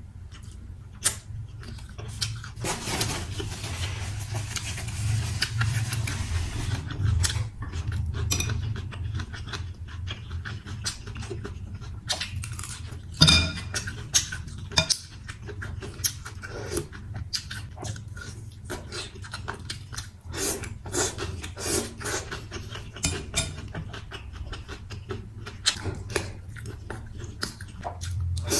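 Eating sounds from a bowl of noodle soup: chopsticks and a spoon clicking and clinking against the bowl many times at irregular moments, with a denser, noisier stretch from about three to seven seconds in.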